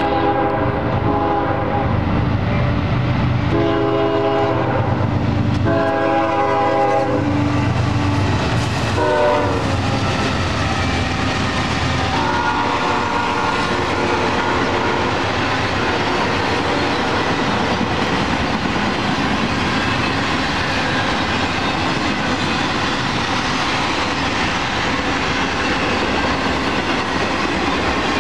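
CSX freight locomotive sounding its air horn in a series of blasts as it approaches: four chord-like blasts in the first nine seconds or so, the third the longest. The intermodal train's cars then roll past with a steady clatter of wheels on rail.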